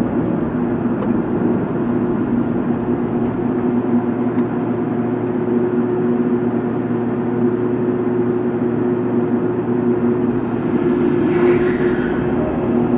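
Heavy diesel machinery running steadily at a constant engine speed, with a brief louder, hissing noise about eleven seconds in.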